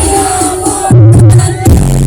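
Very loud music played through a large carnival sound system: a sung melody over deep, booming bass notes.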